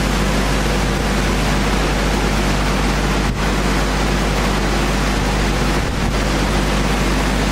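Factory machinery running steadily in a wood-core sanding shop: a loud, even rushing noise over a constant low hum.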